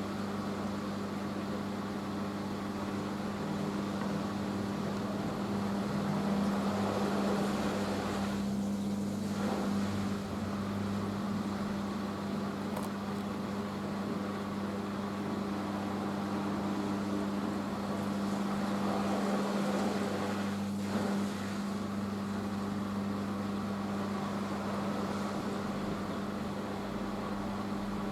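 Hoover H-Wash 500 washing machine spinning during the spin after its first rinse: a steady machine hum at a constant pitch with a whirring rush over it.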